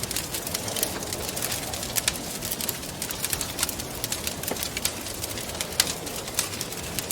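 Wood fire crackling, with many small irregular pops and snaps, over a soft, steady rush of wind that swells and fades.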